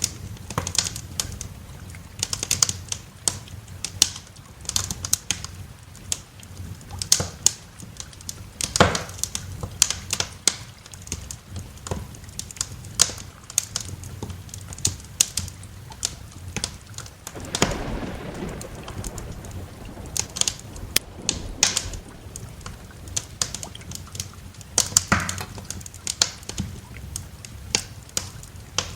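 Wood fire crackling in a fireplace: irregular sharp pops and snaps over a low, steady background rumble, with a longer swell of noise about eighteen seconds in.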